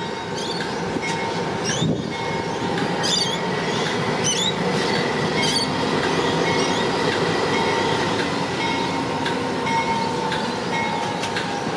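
The Overland passenger train running at the platform: a steady rumble with thin steady whines, and a few brief high squeaks in the first half.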